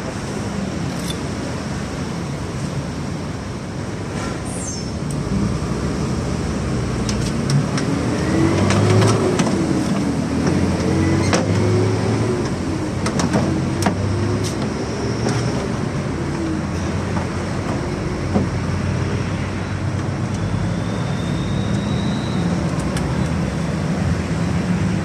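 Motor vehicle and traffic noise: a steady low engine hum, with an engine tone that rises and falls for several seconds in the middle. Scattered sharp clicks and taps come through over it.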